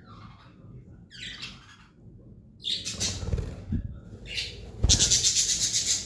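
Pet budgerigars chattering, then loud harsh rasping bursts in the second half, the longest and loudest over about the last second.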